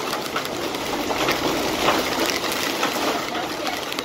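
Heavy wind-driven rain beating on a car: a steady rushing downpour with many sharp taps of drops striking the body and glass.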